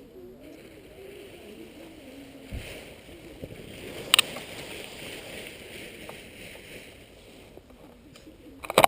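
Wind rushing and buffeting over the microphone, with a sharp knock about four seconds in and a louder cluster of knocks near the end.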